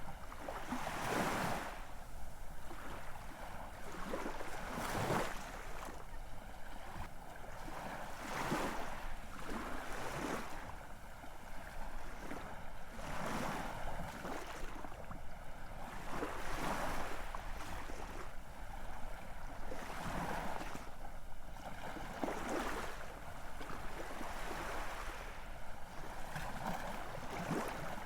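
Ocean surf: waves break and wash in one after another, each a rushing swell of noise that rises and falls away every three to four seconds.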